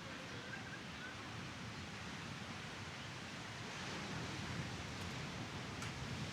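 Small Mediterranean waves washing onto a sandy beach, a steady rush of surf that swells a little about four seconds in.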